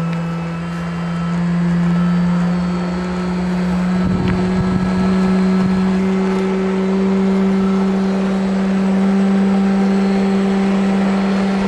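G-scale PIKO Taurus locomotive's sound card playing the electric locomotive's running sound: a steady hum whose pitch rises slowly as the model gathers speed under the inertia control. A brief rattle comes about four seconds in.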